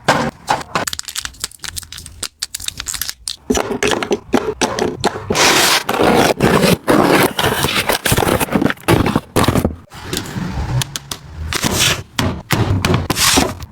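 Hard household items being handled and set down in quick, irregular succession, giving many clicks and knocks with stretches of scraping against a hard surface.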